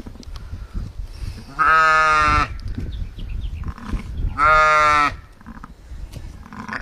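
Two loud bleats, each lasting under a second, the first about a second and a half in and the second near the middle, over a low rumbling background.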